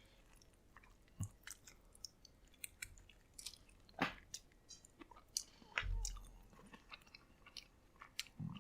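Faint close-up chewing of a soft microwaved enchilada, with scattered small wet mouth clicks and a soft low thump about six seconds in.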